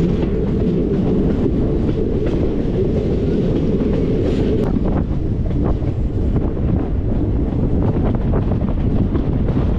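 Passenger train running along the track, heard from an open coach doorway: a steady rumble of wheels on rail with scattered clicks and wind buffeting the microphone. A steady whine in the first half fades out about halfway.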